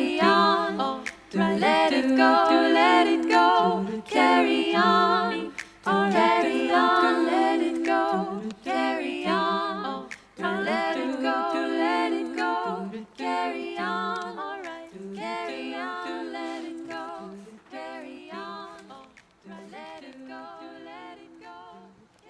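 Background music: wordless a cappella vocal harmony, several voices singing and humming together, fading out over the last several seconds.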